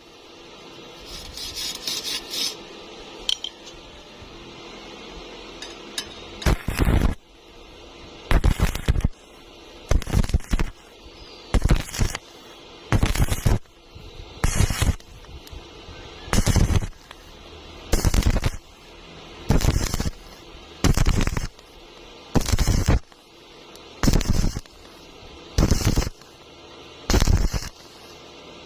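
Short, harsh metallic bursts repeating at a steady pace, about one every 1.4 seconds, starting about six seconds in, from metalwork on a workpiece.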